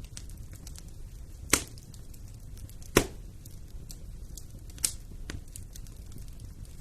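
Wood fire crackling in a fireplace: three sharp pops, the loudest about three seconds in, among lighter scattered ticks over a low steady rush.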